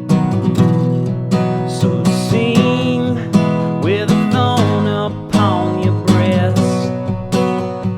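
Acoustic guitar strummed in a steady rhythm, with a second melody line over it that slides up and down in pitch: an instrumental passage of a folk song.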